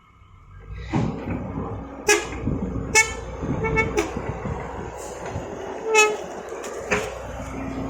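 Heavy vehicle engine running, with several short horn toots sounding over it; the engine noise comes in about a second in.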